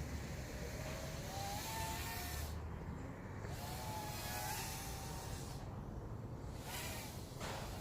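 Micro racing quadcopter in flight, its motors whining and wavering up and down in pitch as the throttle changes. The high hiss drops away briefly twice, about three and six seconds in.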